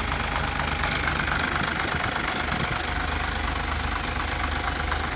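Truck engine idling steadily, a low even rumble with a fast regular pulse.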